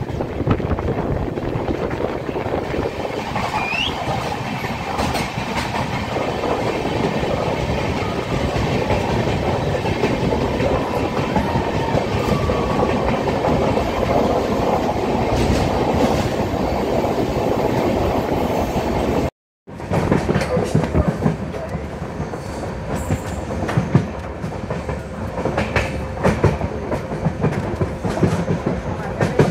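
Passenger train running at speed, heard from an open coach doorway: a steady rumble of wheels on rails with clickety-clack over the rail joints. The sound cuts out for a moment about two-thirds of the way through, and after that the rail-joint clicks stand out more.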